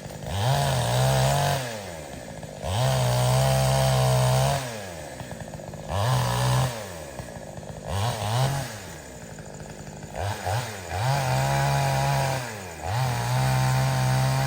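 Two-stroke chainsaw engine revving up to full speed and dropping back to idle again and again, about seven times, with some revs held for a second or two.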